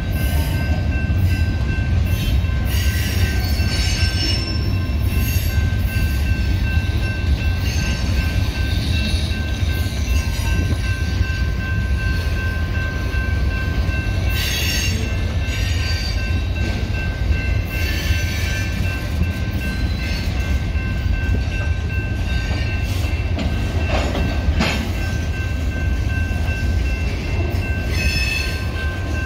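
Freight train boxcars rolling past: a steady, heavy low rumble of wheels on rail under a thin, continuous high squeal. Short bursts of metallic screech and clatter come and go every few seconds.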